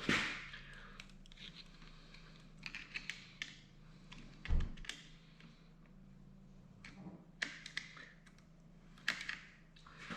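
Small hydraulic pump parts and hand tools handled: scattered clicks and light clatter of metal, with one heavy thunk about halfway through.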